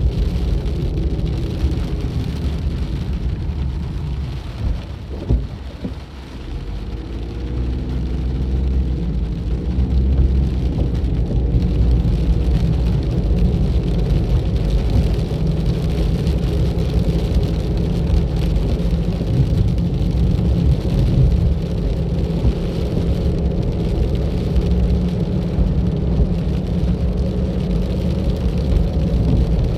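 A car driving on a road: steady low engine and tyre rumble. About five seconds in the noise briefly drops, then the engine's pitch rises as it picks up speed again.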